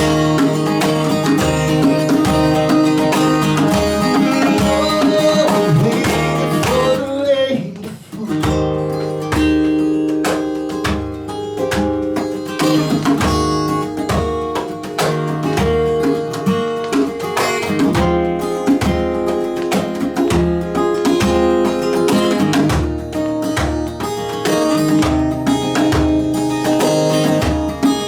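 A band playing a song led by guitar, with a steady beat in the low end. The music dips briefly about eight seconds in, then picks up again.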